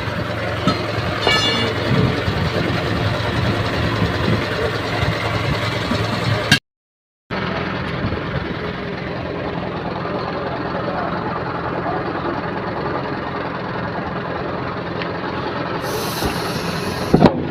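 Steady rumble of running vehicle engines and traffic, broken by a sudden dead-silent gap of under a second about six and a half seconds in.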